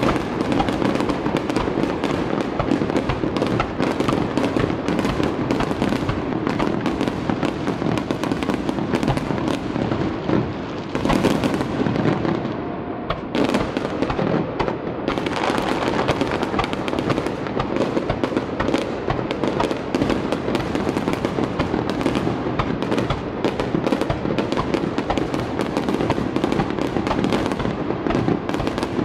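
Aerial firework shells bursting in a dense, continuous barrage of bangs and crackling, easing briefly about halfway through, with music playing underneath.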